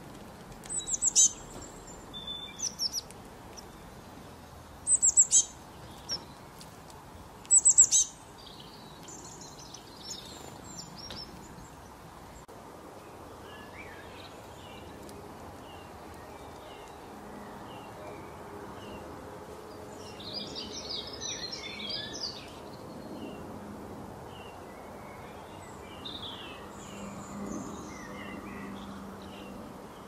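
Wild birds calling: four loud, sharp calls that sweep downward in pitch in the first eight seconds, then softer scattered chirps and a brief burst of twittering about twenty seconds in.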